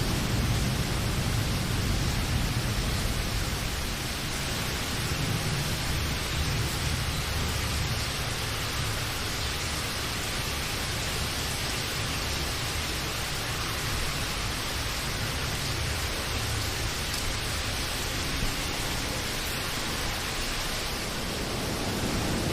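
Steady rain falling as an even hiss, with a low rumble underneath that swells and fades several times.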